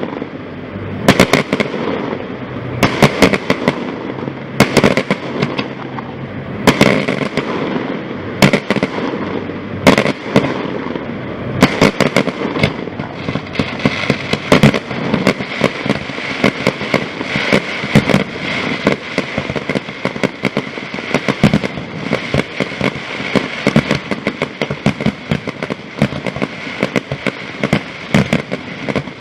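Fireworks display: a dense, continuous run of bangs and crackles, several a second, with louder booms every second or two.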